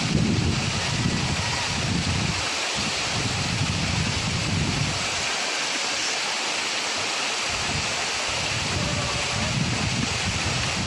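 Steady rushing hiss of a waterfall, with wind buffeting the microphone in low gusty rumbles that ease off for a couple of seconds about halfway through.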